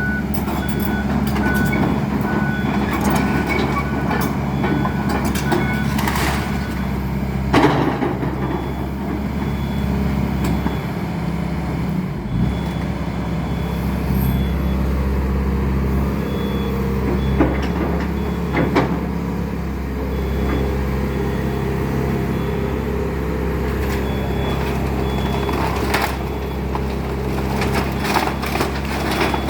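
Excavator diesel engine running steadily, with a backup alarm beeping at intervals and a few sharp knocks and cracks.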